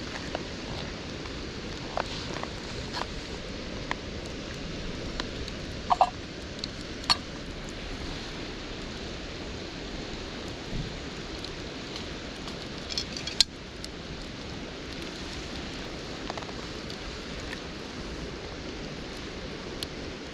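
Wood campfire crackling: a steady hiss with scattered pops and snaps, the loudest pops about six seconds in and again about thirteen seconds in.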